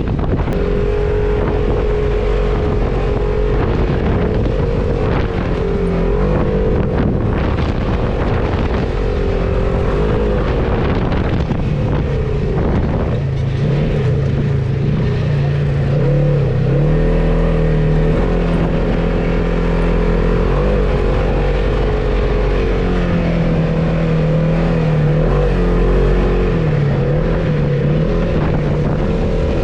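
Off-road vehicle engine running under load, its pitch rising and falling as the revs change, with wind buffeting the microphone.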